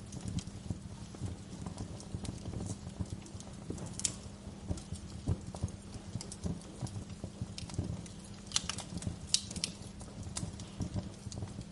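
Wood fire crackling: a dense run of small pops and snaps over a low rumble of burning, with a few sharper pops about four seconds in and again around nine seconds.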